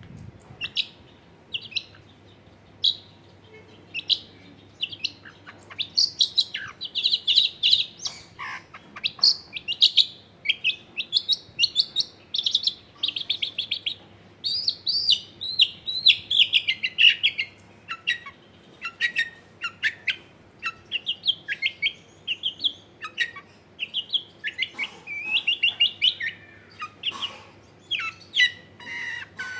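Long-tailed shrike (cendet) singing a rapid, near-continuous run of varied short chirps and slurred whistles, the prolific 'gacor' song used as a lure to set a silent cendet singing.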